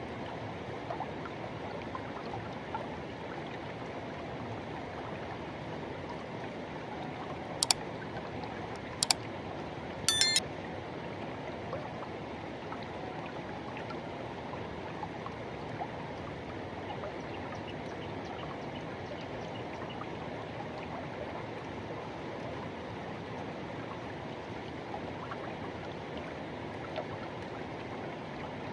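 River water rushing and flowing steadily. Three brief sharp sounds come about 8, 9 and 10 seconds in, the last with a short ringing tone, and they are louder than the water.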